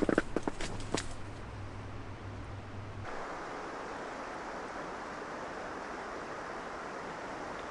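A few sharp clicks and knocks in the first second, then an abrupt change about three seconds in to the steady rushing of a river.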